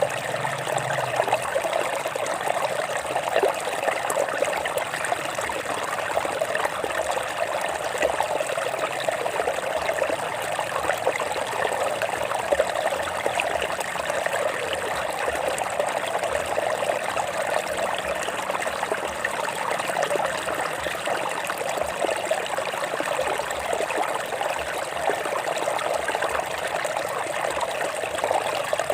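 Stream water running over rocks: a steady trickling, babbling flow that does not change.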